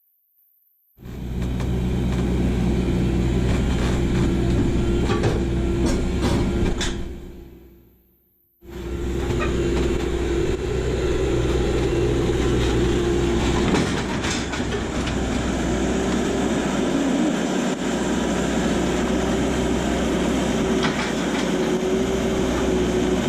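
Farm tractor pulling a New Holland BC5060 small square baler: a steady engine drone with a held higher whine over it. The sound fades out about seven seconds in, then cuts back in abruptly a moment later.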